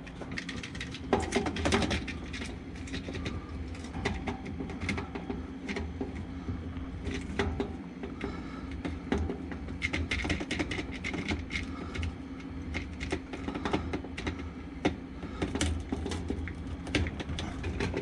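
Hands working a wiring plug onto a washing machine's lid lock switch: irregular small plastic clicks, knocks and rattles, over a steady low hum.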